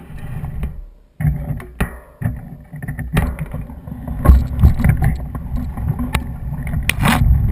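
Low rumble of a mountain bike being ridden over rough ground, with scattered knocks and rattles that get louder and denser after about four seconds.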